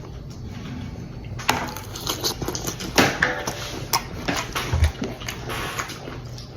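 Close-up eating sounds: a bite of crunchy shrimp salad with pickles, cucumbers and onions being crunched and chewed, a run of crisp clicks and crackles.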